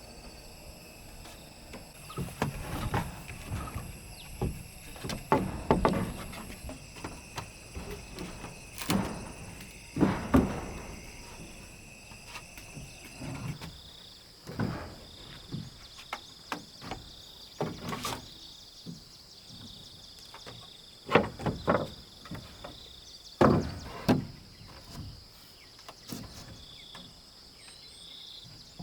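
Irregular knocks and thuds of wooden timber being worked and handled, a few of them sharp and loud. Insects chirp steadily in the background, the chirping turning into a pulsing trill about halfway through.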